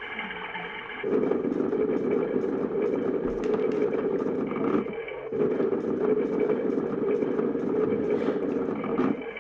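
Toy washing machine's small electric motor running with a whir and a fast regular ticking. It gets louder about a second in and cuts out briefly twice, once near the middle and once near the end.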